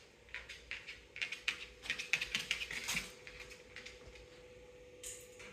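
Quick, light taps and clicks from a young cockatoo moving about on wood, several a second for about three seconds, then sparser and quieter, over a faint steady hum.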